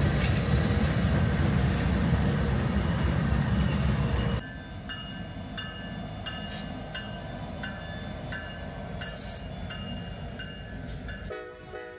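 Norfolk Southern diesel locomotives hauling a freight train, passing close with a heavy engine and wheel rumble. About four seconds in the sound drops abruptly to a quieter rumble, with a short high ringing tone repeating about twice a second.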